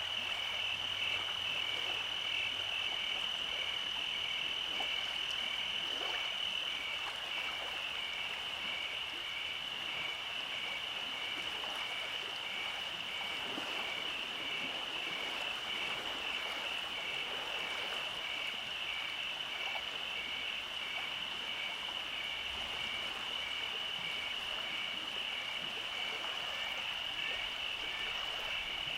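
Nighttime chorus of frogs and insects: a steady high trill with a second trill just below it that pulses evenly and keeps going.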